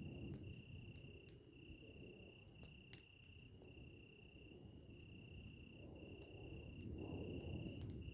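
Crickets trilling in a steady high tone, broken into phrases of about a second with short gaps, with scattered sharp crackles from a campfire and a faint low rumble.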